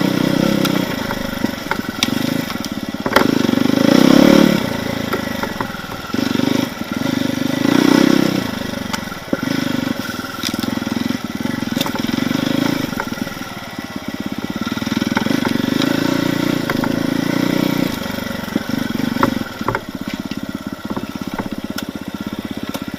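Off-road enduro motorcycle engine revving in short repeated bursts and dropping back as the bike is worked slowly over logs and through trees, with scattered knocks and clicks.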